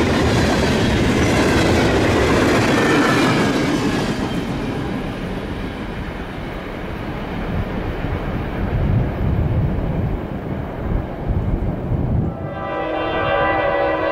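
Freight cars rolling past on the rails, wheels and couplers rumbling and rattling, fading after about four seconds as the end of the train goes by. Near the end, an approaching freight locomotive's air horn starts sounding a steady chord of several tones.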